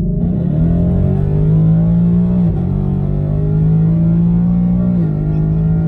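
2019 Ford Mustang GT's V8 engine heard from inside the cabin while driving: a steady drone whose pitch dips slightly about two and a half seconds in and steps down again about five seconds in.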